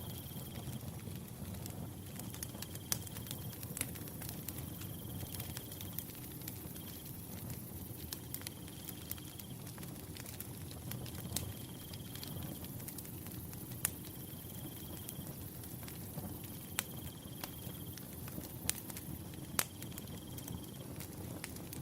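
Wood fire burning, with irregular sharp crackles and pops over a low steady rumble. A cricket trills in short high stretches that repeat every couple of seconds.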